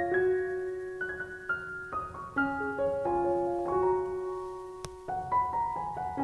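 Gentle background piano music: a soft melody of single notes over held chords.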